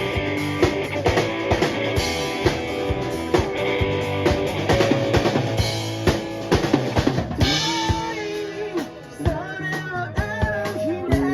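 Live band music with a drum kit (bass drum, snare and rimshots) playing a steady beat over bass and electric guitar. The drumming eases briefly about nine seconds in, with sliding guitar notes before it picks up again.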